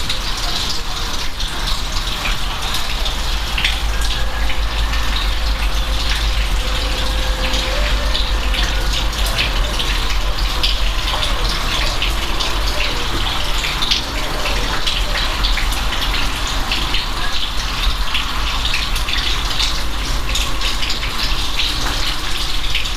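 Steady rain: a dense hiss full of individual drop ticks, with a constant low rumble underneath.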